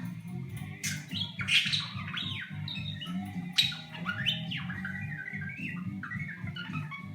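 Budgerigar chattering and whistling: quick rising and falling beeps and warbles, like R2-D2's, broken by a few sharp squawks. A steady low hum runs underneath.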